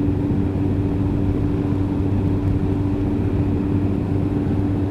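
Yamaha FZS Fazer 1000's inline-four engine running at a steady pitch.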